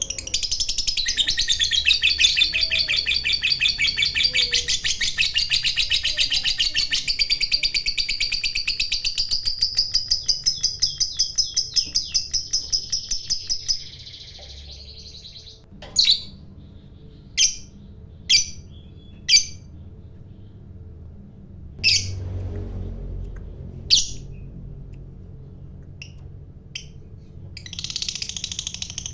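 A lovebird giving its long chattering trill (ngekek panjang), a rapid run of high pulses lasting about fourteen seconds that stops abruptly. A few sharp single chirps follow, spaced a second or two apart, and the trill starts again near the end.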